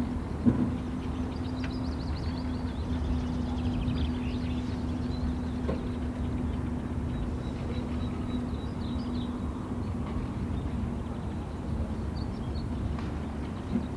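Small birds chirping now and then, high and brief, over a steady low rumble with a constant hum.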